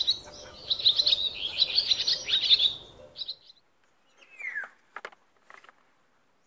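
Small bird chattering in a fast run of high, sharp chirps for about two and a half seconds, then a short chirp, one falling call and a few faint clicks as it fades out.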